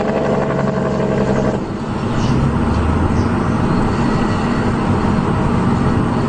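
Dump truck's diesel engine running hard and loud, its engine note dropping to a lower pitch about a second and a half in.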